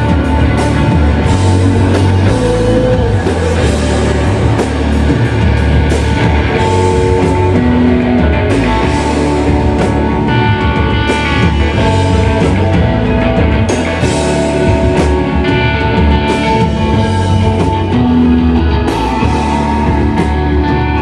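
Live shoegaze rock band playing loud, dense distorted guitars over bass and drum kit, with held guitar tones layered through the wash.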